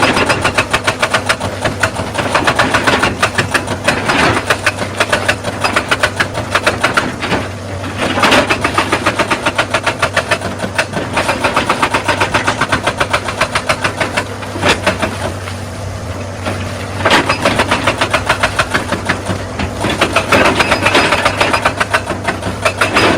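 Excavator-mounted hydraulic rock breaker hammering stone in rapid, evenly spaced blows, several loud stretches broken by short pauses, over the excavator's diesel engine running steadily underneath.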